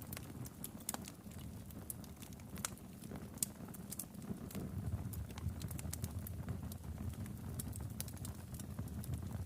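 Wood fire in a fireplace crackling, with irregular sharp pops and snaps over a steady low rumble of the flames. One louder pop comes about three and a half seconds in.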